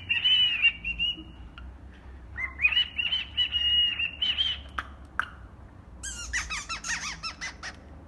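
Cockatiel whistling and chirping in warbling phrases: a short run near the start, a longer one in the middle, then a quick series of short chirps near the end.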